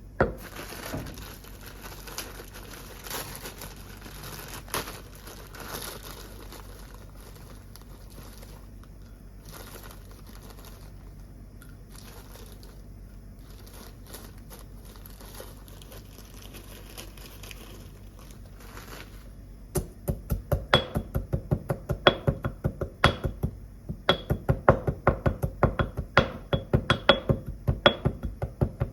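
Crinkling and rustling handling noise, then, about twenty seconds in, a fast run of sharp knocks, several a second, some with a brief ring.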